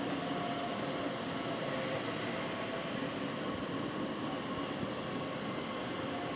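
Electric passenger train alongside the platform giving a steady rumbling hum, with a few faint whining tones above it.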